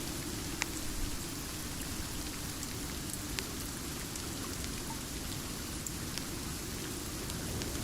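Steady rain, with a few sharp pops and ticks scattered through it.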